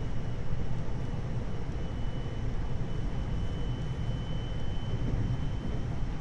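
Hapi-Line Fukui 521 series electric train running between stations, heard from inside the car: a steady rumble of the wheels on the rails, with a faint, steady high whine.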